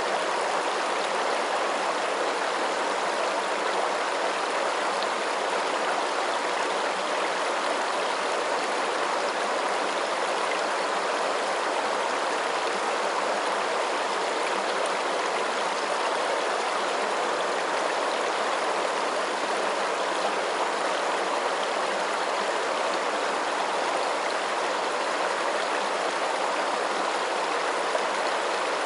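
Running water making a steady, even rush that stays unchanged throughout.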